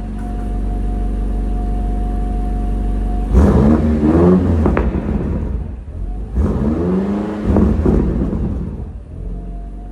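2024 Range Rover Sport SV's twin-turbo V8 and exhaust idling steadily, then revved twice, each rev rising and falling in pitch over a second or two, before settling back to idle.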